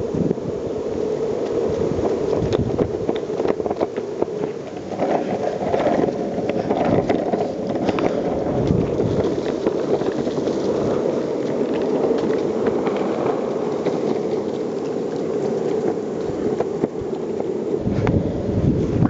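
Longboard wheels rolling over pavement: a steady rumble with frequent small clicks and knocks.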